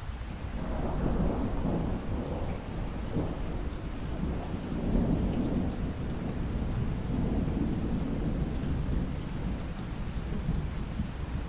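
Steady rain with a long roll of thunder rumbling underneath, building about half a second in, swelling several times and easing near the end.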